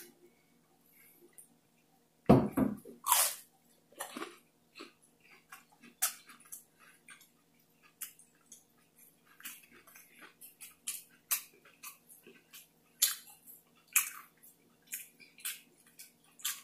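Close-up chewing of a crunchy deep-fried, breaded crab leg with hot sauce on it: a loud bite a little over two seconds in, then a run of crisp crunches and mouth clicks.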